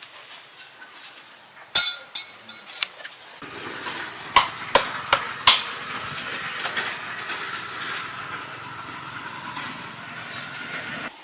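A series of sharp knocks, then a steady rushing hiss starts a few seconds in, with four more quick knocks soon after, over a thin high insect drone.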